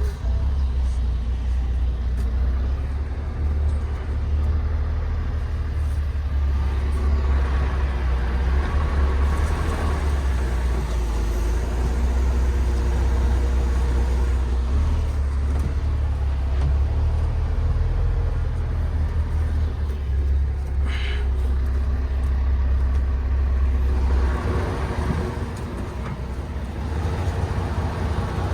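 MAN TGX 18.510 truck's six-cylinder diesel engine running with a steady low drone while the truck is driven, with a brief higher-pitched sound about three quarters of the way through.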